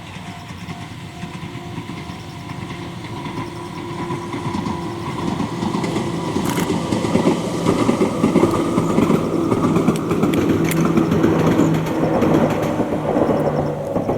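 Ohmi Railway electric train running past, growing louder from about four seconds in. It has a steady motor hum and wheels clicking over the rail joints.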